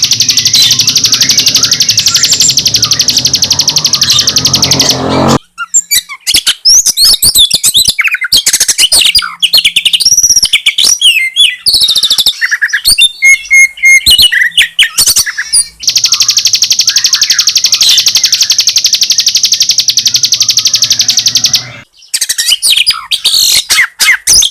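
Recorded birdsong spliced together: a ciblek gunung (mountain prinia) gives a rapid, unbroken high trill for about five seconds, then an oriental magpie-robin (kacer) sings varied whistles and chirps for about ten seconds. The prinia's trill comes back for about six seconds, and the magpie-robin's song returns near the end.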